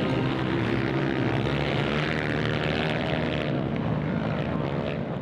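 Motocross dirt bike engines running steadily, their pitch drifting slightly.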